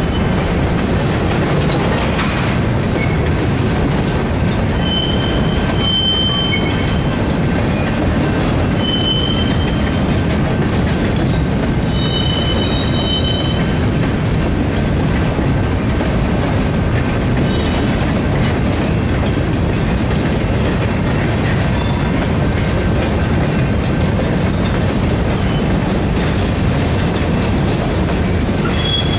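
Freight cars of a mixed freight train (tank car, boxcar, covered hoppers) rolling past slowly, a steady rumble of steel wheels on the rails. Brief high-pitched wheel squeals cut in a few times, the longest lasting a second or two, with the last near the end.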